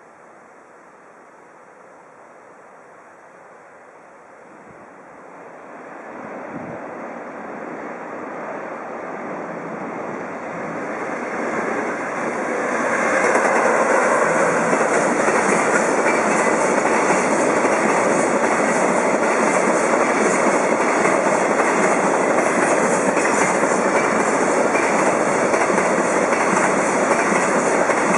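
JR Freight EF66 electric locomotive hauling a freight train through a station without stopping. The rumble grows from about five seconds in and is loud and steady from about thirteen seconds, with the wheels clattering over the rail joints.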